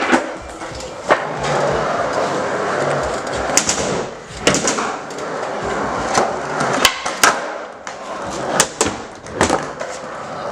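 Skateboard wheels rolling across a basement floor, broken by sharp clacks of the board: tail pops and landings, several through the stretch.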